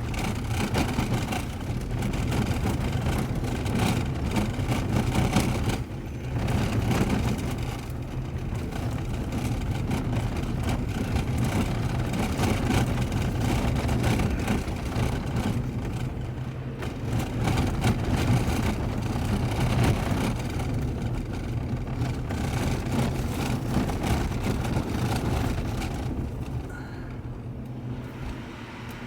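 A car driving, its engine and tyres making steady road noise. The noise eases briefly about six seconds in and drops a little near the end.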